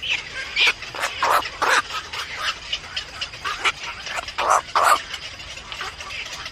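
A series of short, sharp animal calls, a dozen or so at irregular intervals, the loudest a close pair about four and a half seconds in.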